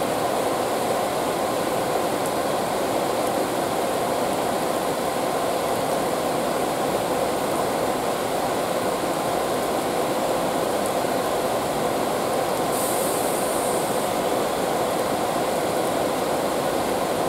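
Konan Railway electric train rolling slowly into a station: a steady rumble of its wheels and running gear on the rails. A short high hiss comes in about thirteen seconds in.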